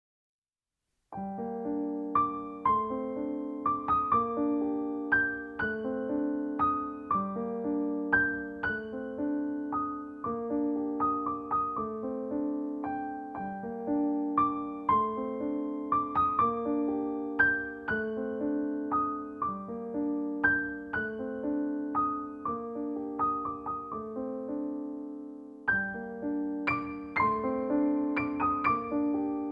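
Solo piano music: a melody over low notes that change about every two seconds, starting about a second in after a moment of silence.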